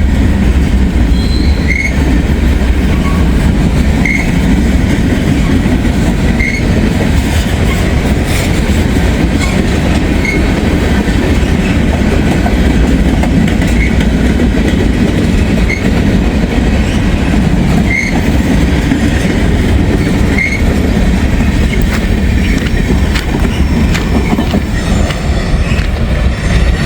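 Freight train cars rolling steadily past at close range: a loud, continuous rumble of wheels on rail, with a short high tick about every two seconds.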